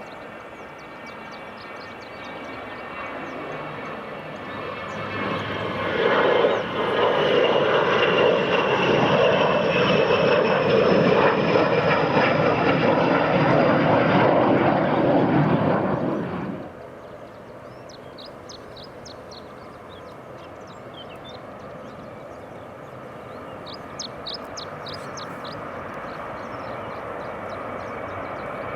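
Airliner engines at close range, swelling to a loud, steady noise with a slowly falling high whine, then cutting off suddenly about halfway through. A quieter, steady engine noise follows, with short high chirps.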